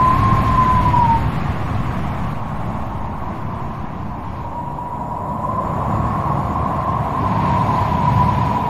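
Wind blowing hard, a low rumble with a wavering whistle over it; the whistle dies away about a second in and swells back after about four seconds.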